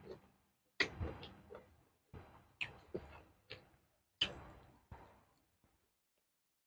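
Close-up crunching of raw vegetables being bitten and chewed: about eight crisp crunches over the first five seconds, each one short and sharp.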